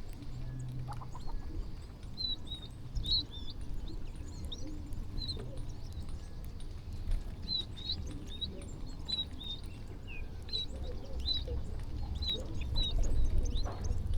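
A flock of small birds feeding, chirping with many short, high calls in quick succession. A steady low rumble runs underneath.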